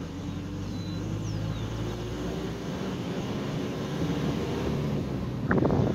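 Vehicle engine running steadily while driving on an unpaved gravel road, with tyre and road noise. Near the end comes a short burst of rattling knocks.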